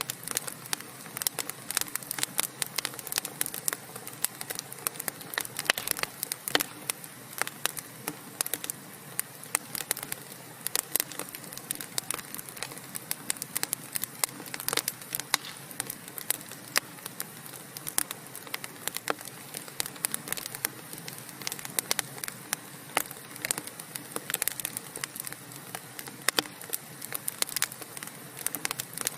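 Wood fire burning in a fireplace, logs crackling with many sharp, irregular pops over a faint steady hiss.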